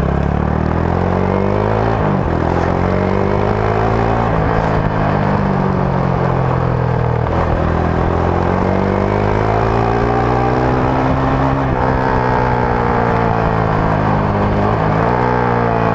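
Rusi Sigma 250 motorcycle's stock exhaust while riding. The engine note climbs and falls in long sweeps, dropping sharply about two seconds in and again near the end.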